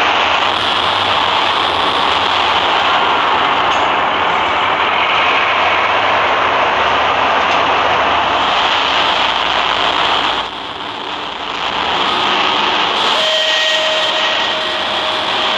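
Train running with a loud, steady rushing noise that dips briefly about two-thirds of the way through, and faint steady high tones near the end.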